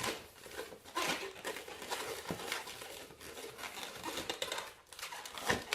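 A latex twisting balloon being squeezed and twisted into small bubbles by hand, with irregular rubbing and crinkling of the rubber and a few sharp short squeaks.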